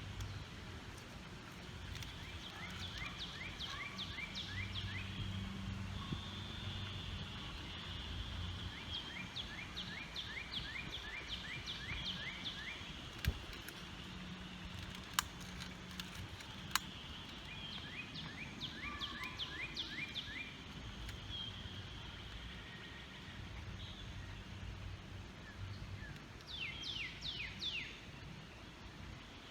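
Outdoor ambience with a songbird repeating a short phrase of quick down-slurred notes, about four times. A faint low hum runs underneath, with a few sharp clicks.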